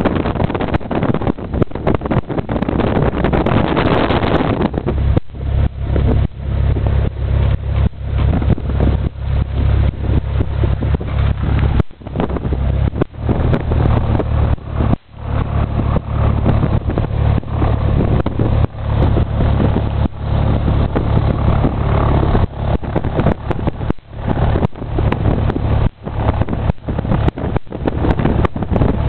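A light airplane's engine and propeller running steadily, a constant low hum under a rush of wind noise, with frequent brief dips in level.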